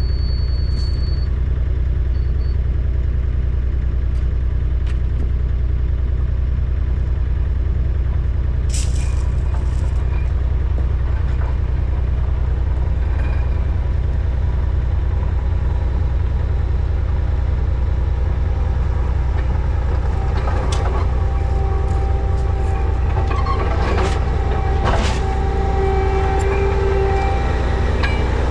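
Heavy machinery engine running steadily at a constant pitch, with a few sharp knocks and clanks in the last third.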